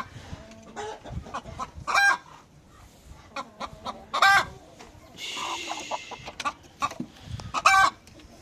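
Chickens clucking, with loud squawks about every two seconds and a short rasping call in between.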